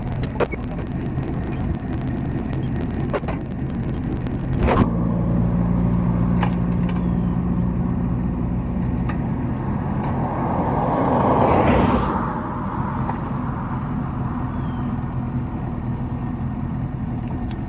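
Kubota KX71-3 mini excavator's diesel engine running steadily, picking up about five seconds in, with scattered rattles and clicks early on and a louder rushing surge from about ten to twelve seconds in.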